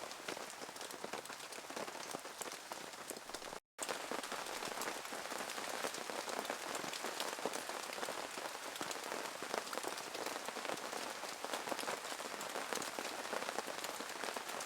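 Steady rain falling, a dense hiss of many small drop impacts, broken by a brief silent cut a little under four seconds in.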